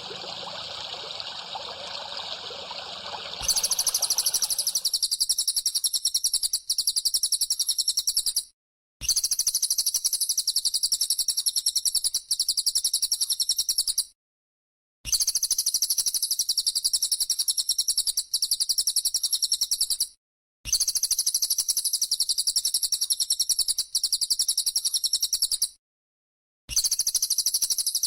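Trickling water, then from about three and a half seconds in a looped masteran recording of a high, rapidly pulsing call, replayed in clips about five seconds long separated by brief cuts to silence.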